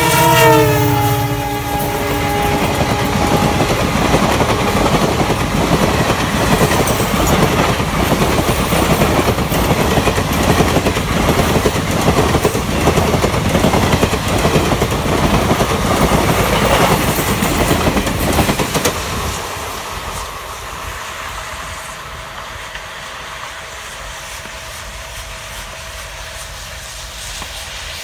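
Horn of a WDP4 diesel locomotive dropping in pitch as it passes at speed, then the fast, dense clatter of the express's coach wheels over the rail joints, which fades away about two-thirds of the way through as the train draws off.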